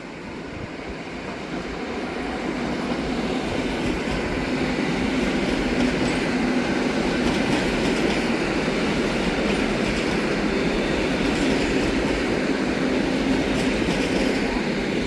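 Train running through the station: its noise builds over the first few seconds as it approaches, then holds steady as the cars pass.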